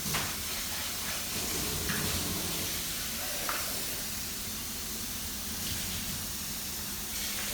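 A steady hiss with a few faint ticks.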